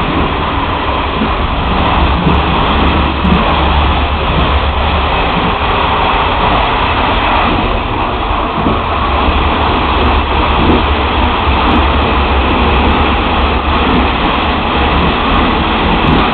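Passenger train running along the track, heard from the rear of the last carriage: a steady, loud rumble of wheels on rail with rushing air.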